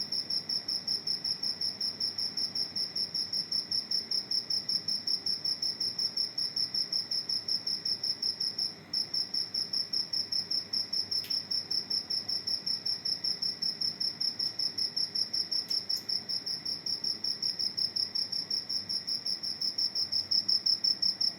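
Cricket chirping indoors: a continuous, rapid, even train of high-pitched pulses, broken by a brief pause about nine seconds in.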